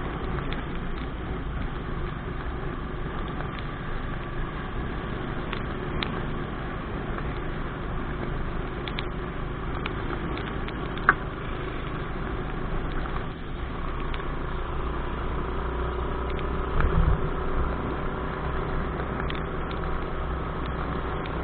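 Motorcycle engine running on the move, with steady road and wind noise. A sharp click comes about halfway through, and a brief low thump comes later.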